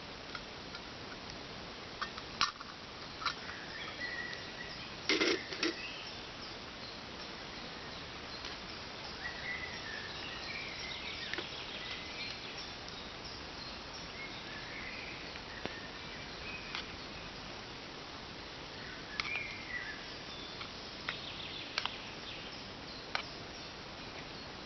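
Outdoor ambience: a steady hiss with faint bird chirps every few seconds and scattered small clicks.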